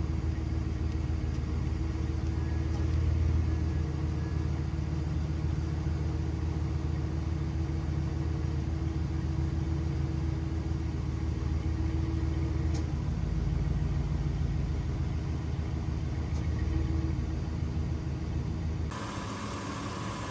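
1999 GMC Sierra pickup's engine idling steadily shortly after a cold start, a low, even rumble. About a second before the end the rumble drops away abruptly and a steady hiss with a faint whine takes over.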